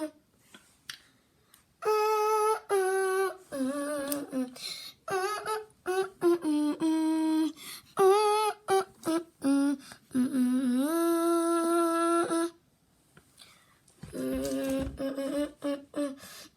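A voice humming a wordless melody in held notes with vibrato, broken by short pauses. The longest note slides up and is held near the middle. A silence of about a second follows before the tune resumes.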